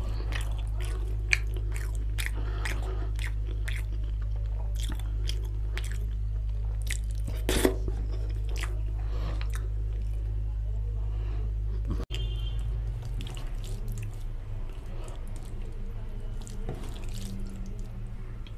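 Close-up chewing and wet mouth clicks and smacks of a person eating curry and rice by hand, busiest in the first half, with squishing of gravy-soaked food in the fingers. A steady low hum runs underneath.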